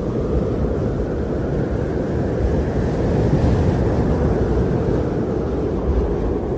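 Wind blowing steadily, a deep rumbling rush with a slight swell midway.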